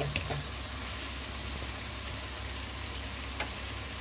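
Pork and chayote cooking in a wok: a steady low sizzle and hiss over a low hum, with a faint click shortly after the start and another near the end.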